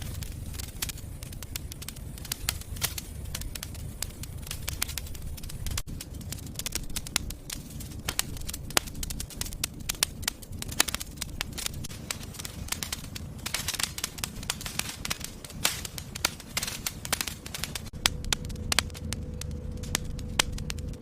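Wood fire in a fireplace crackling and popping, with irregular snaps over a low rumble of flames. A faint steady hum comes in near the end.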